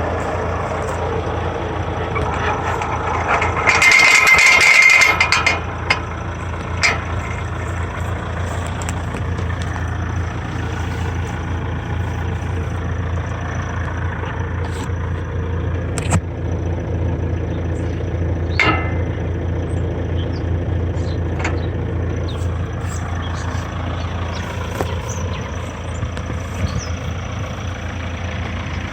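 Kioti RX7320 tractor's diesel engine idling steadily. About four seconds in, a loud hiss lasts a couple of seconds, and a few sharp clicks follow later.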